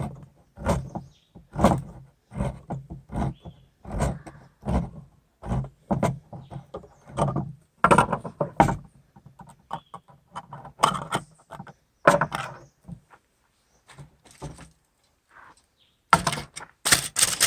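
Manual can opener cutting around the lid of a tin of creamed corn in repeated short crunching strokes, about one to two a second, with a louder, brighter burst near the end.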